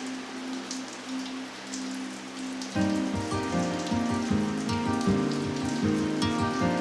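Rain falling steadily, with scattered drop sounds. About three seconds in, background music with a melody comes in and plays over the rain.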